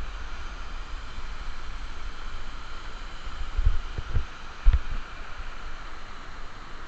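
Steady rush of falling water from a waterfall, with a few dull low thumps on the microphone about halfway through.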